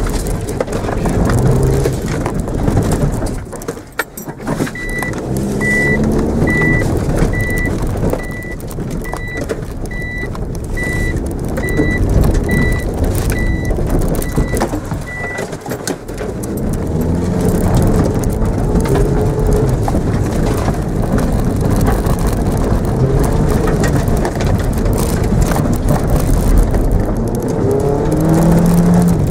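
Mitsubishi Mirage engine heard from inside the cabin, revving up and falling back several times, with a brief lull about four seconds in. A steady, evenly spaced electronic beeping runs for about ten seconds near the middle.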